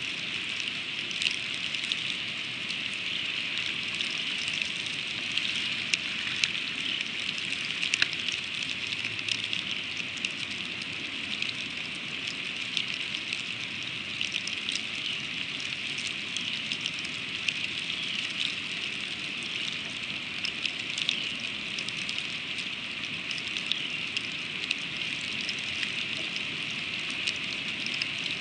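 Freezing rain falling on an eagle nest: a steady high hiss with many small ticks of drops striking.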